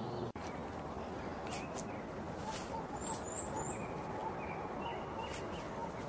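Small wild birds chirping over a steady background hiss: scattered short high calls, with three quick high chirps about three seconds in.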